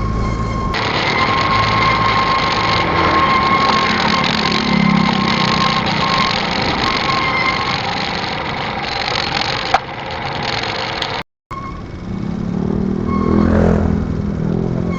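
Motorcycle running on the move, a steady rushing noise with a thin steady whine over it. The sound cuts out completely for a moment about eleven seconds in, and after it a low engine note swells briefly near the end.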